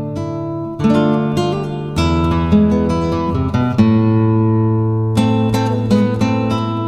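Acoustic guitar music: chords strummed and picked, each new chord ringing on.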